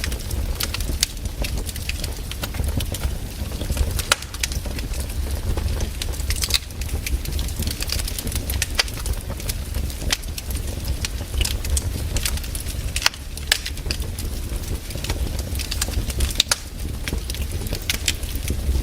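Wood campfire burning: irregular sharp crackles and pops over a steady low rumble.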